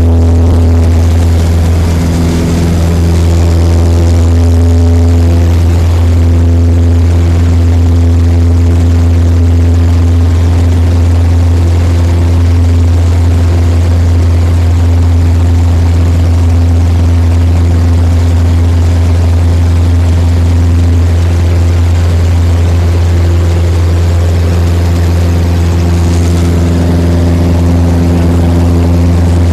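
Cessna 172 floatplane's single piston engine and propeller running with a steady, loud, unchanging drone.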